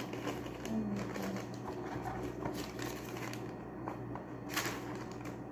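Light handling noises: soft rustling and small clicks of a phone box and its paper contents being handled, with a sharper click about four and a half seconds in, over a steady low hum.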